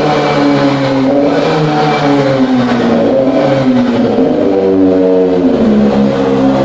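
Kawasaki ZX-25R's 250 cc inline-four running loud through a custom aftermarket exhaust, its pitch rising and falling several times as the revs change.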